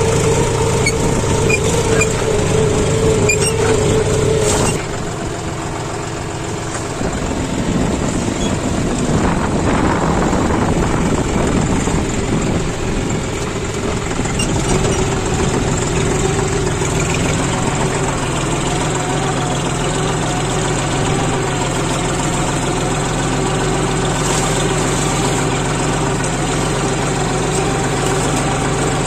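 John Deere 5045D tractor's three-cylinder diesel engine running steadily. About five seconds in a strong steady tone drops out and the sound eases off, then builds back to a steady run.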